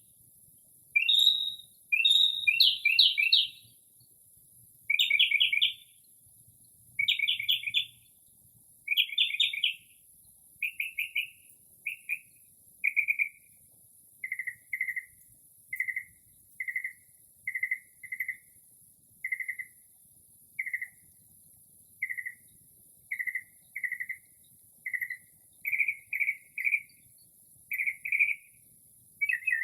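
Northern mockingbird singing a run of mimicked phrases. It opens with loud, rapidly repeated bursts of notes over the first ten seconds or so, then moves to a long series of short, clear notes about one a second, some of them doubled.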